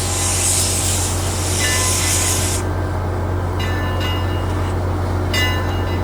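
Narrow-gauge Eureka, an 1875 Baldwin 4-4-0 steam locomotive, running with a loud hiss of steam over a steady low rumble. The hiss cuts out about two and a half seconds in and comes back near the end.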